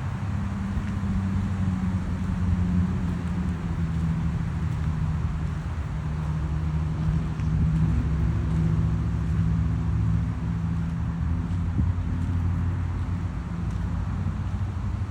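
A vehicle engine running steadily: a low droning hum with a constant rushing noise over it.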